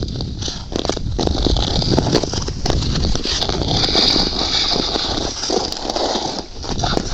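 Ice skate blades scraping and clicking on outdoor ice, with a rough hiss and frequent sharp clicks over a low rumble.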